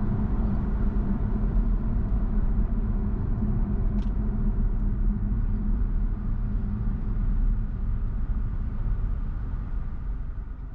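Car driving: a steady low rumble of road and engine noise with a constant hum, with one brief tick about four seconds in. The noise fades down near the end.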